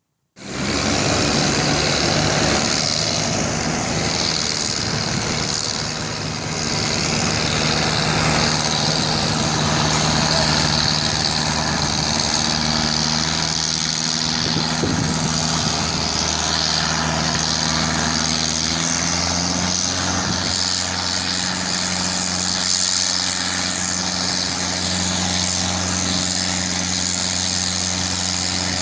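Massey Ferguson farm tractor's engine running hard and steady during a stock tractor pull. The engine note changes about twenty seconds in.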